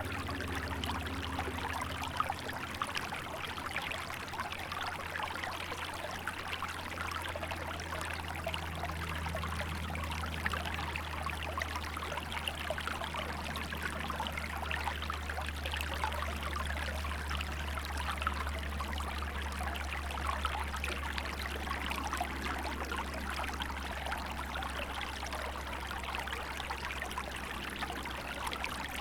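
Small river flowing and burbling steadily over its bed in winter, with a steady low rumble underneath.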